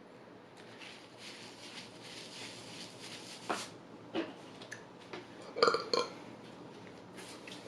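A man burps loudly in two quick pulses a little past the middle, the loudest sound here. A few sharp clicks and knocks come before it.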